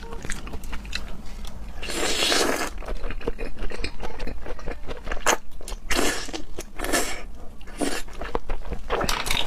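Close-up chewing and biting of raw seafood: wet clicking mouth sounds, with a few louder half-second noises spread through.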